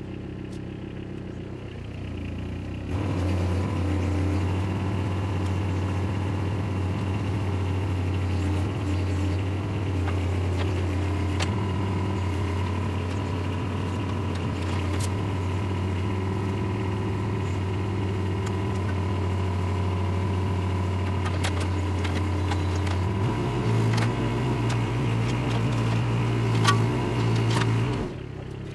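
Diesel engine of a Case 420CT compact track loader running. It is throttled up about three seconds in, shifts to a higher pitch a little before the end, then drops back. Scattered sharp metal clinks and knocks sound over it.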